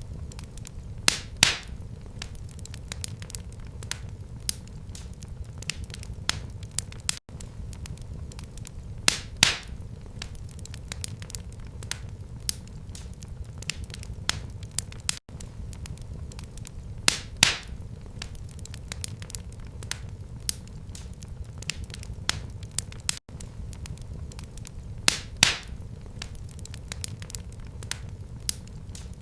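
Wood fire crackling and popping in a fireplace over a steady low rumble of flames. The loudest pops come about every eight seconds, from a repeating loop of the same recording.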